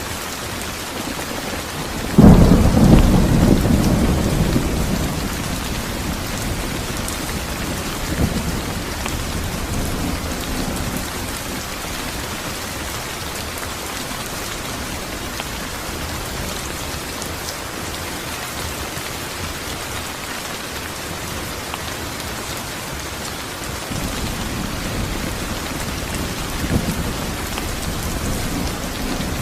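Steady heavy rain with a loud clap of thunder about two seconds in that rumbles away over several seconds, and fainter rolls of thunder later on.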